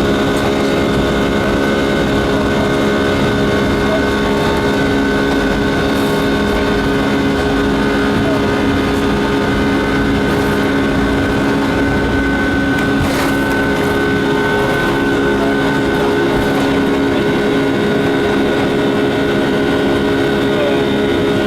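Boeing 757-223's Rolls-Royce RB211 jet engines running at steady power, heard as a constant cabin drone with several steady humming tones layered over it.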